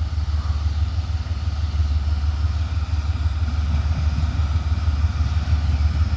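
Diesel locomotives of a grain train, the lead two GE ES40DC units, approaching with a steady low engine rumble that grows slightly louder.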